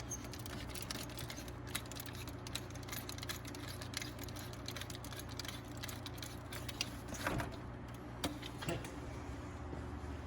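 Scattered light clicks and metallic clinks of hand tools and parts being handled on an engine, over a steady low hum.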